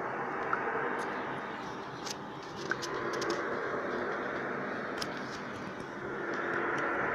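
A steady droning hum with several held tones, heard overhead and all around over a city at night, with a few faint clicks. It is one of the unexplained 'strange sounds' reported from the sky, which the recordist could not identify.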